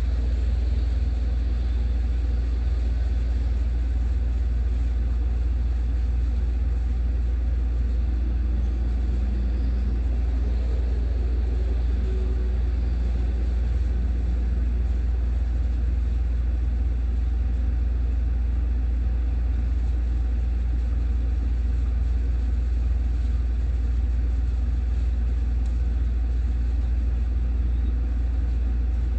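Steady low rumble that holds at one level throughout, with a faint even hiss above it.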